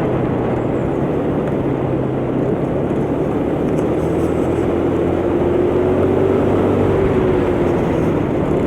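125cc motor scooter riding along, its engine running steadily under heavy wind rush, with a faint whine whose pitch rises a little and then eases back.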